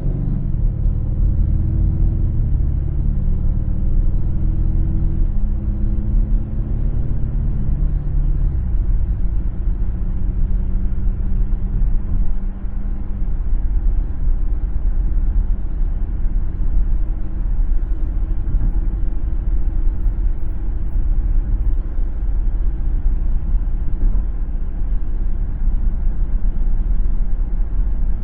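A car driving on a city road: a low, steady rumble of engine and tyres. For the first eight seconds or so an engine hum is heard whose pitch steps down, then fades into the road noise.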